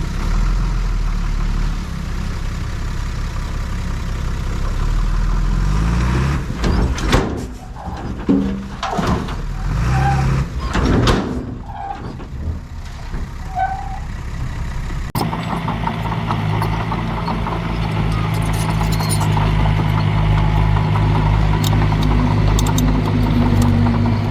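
Heavy diesel engines of a bulldozer and dump trucks running as they work. The engine sound varies in the middle and changes abruptly about fifteen seconds in, then settles into a steady drone.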